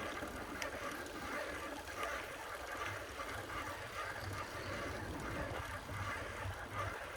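Steady road and wind noise from riding a bicycle through city streets, with an uneven low rumble underneath.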